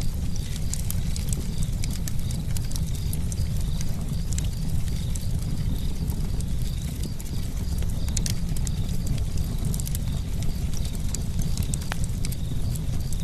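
Campfire burning with a continuous low rumble and frequent sharp crackles and pops of the burning wood.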